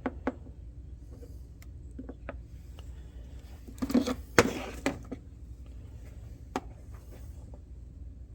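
Light clicks and a short rustling clatter about halfway through, from plastic ignition parts and a grease tube being handled, over a steady low hum.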